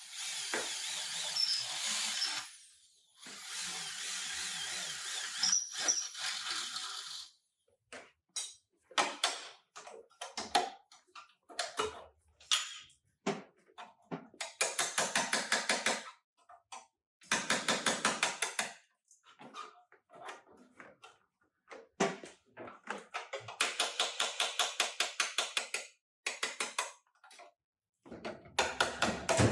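Power tools run in repeated bursts: two steady runs of a few seconds each at the start, then many short on-off bursts, several of them with a fast, even pulsing.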